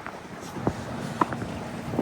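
Footsteps on snow, as irregular soft knocks and clicks, over outdoor noise. A low steady engine hum comes in about a second in.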